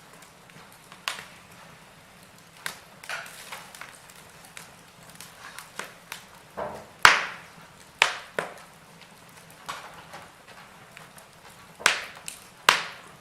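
Logs burning in a fireplace, crackling and popping at irregular moments over a soft hiss. The loudest pop comes about seven seconds in, and two more sharp pops come near the end.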